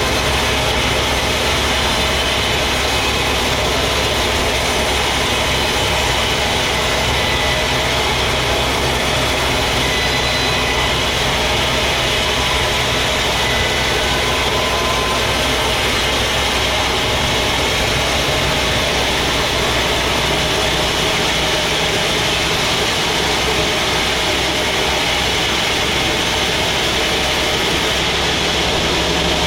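Sawmill machinery running steadily: a continuous engine-like drone with an even noise over it. It does not change over the whole stretch.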